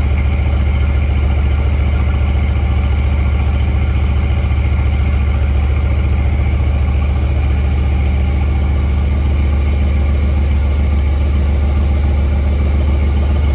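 Mercedes-AMG C63's 4.0-litre twin-turbo V8 running steadily: a constant deep drone with no revving or change in pitch.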